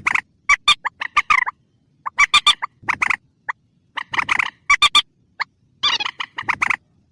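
Recorded calls of a mandar (a rail or swamphen), played as a hunting lure. Short, sharp call notes come in rapid clusters of three to six, with brief pauses between clusters.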